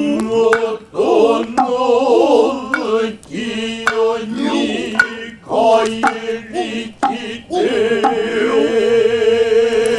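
Male Noh chanting (utai) in long, drawn-out, wavering tones, punctuated by sharp, irregular strokes of the Noh hand drums.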